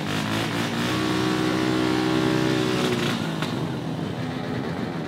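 Mini bike engine running at high revs, holding a steady pitch, then dropping in pitch and fading after about three seconds.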